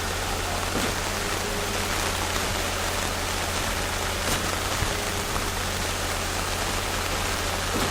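Steady rain falling, with a steady low hum underneath.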